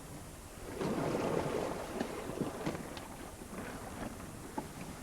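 Sailing yacht at sea: water washing along the hull and wind on the microphone, swelling about a second in, with a few light knocks from on board.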